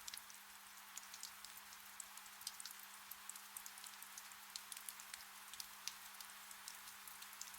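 Gentle rain falling: a soft, even hiss with many small drop ticks scattered through it. A faint steady low hum runs underneath.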